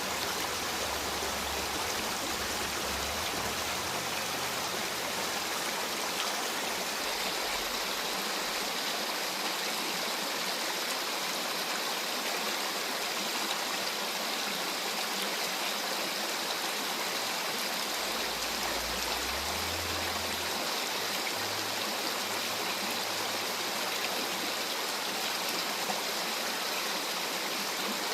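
Mountain stream rushing steadily over rocks, an even wash of running water.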